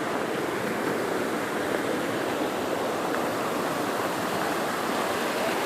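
Creek water running steadily, a constant rushing.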